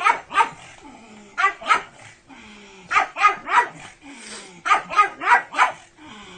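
Dogs barking in quick runs of two to four sharp barks, about every one and a half seconds, with low falling whines between the runs.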